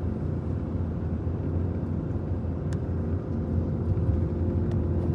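Truck driving at road speed: a steady low engine and road hum with a few faint ticks.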